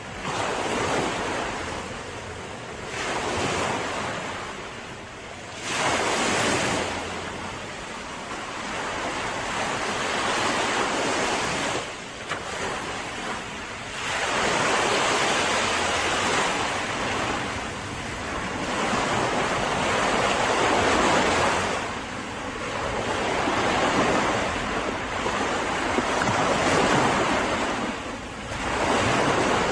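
Sea waves breaking and washing up a beach, the surf swelling and ebbing every few seconds, with some wind buffeting the microphone.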